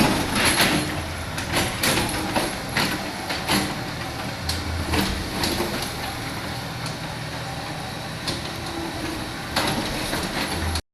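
Kobelco SK75 hydraulic excavator running, a steady diesel engine drone under irregular metallic clanks and knocks from the working machine. The sound cuts off abruptly near the end.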